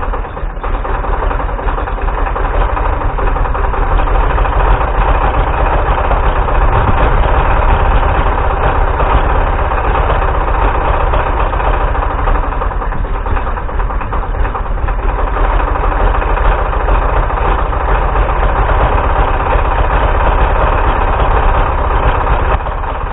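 Galion 503 grader's UD-236 diesel running and chugging unevenly just after a cold start, not yet settled into a smooth idle: the cold-blooded engine is struggling to stay running while still cold.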